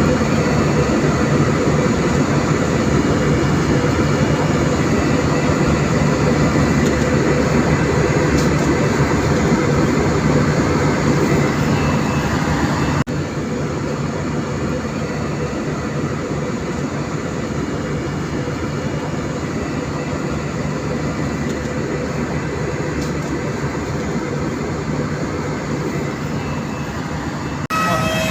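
Steady rumbling cabin noise inside a jet airliner, from the engines and the rushing air. About halfway through it drops suddenly to a lower level and carries on steadily.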